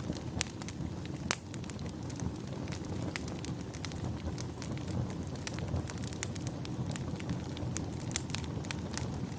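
Wood fire crackling in a fireplace: sharp, irregular pops and snaps over a steady low rumble, with the loudest snaps in the first second or so.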